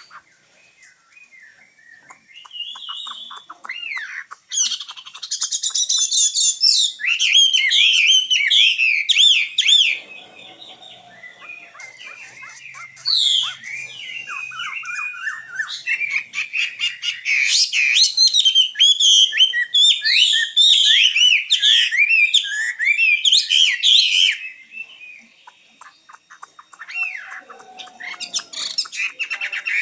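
Nightingale singing: loud phrases of fast repeated notes, trills and whistles, one from about five to ten seconds in and a longer one from about sixteen to twenty-four seconds, with quieter calls between.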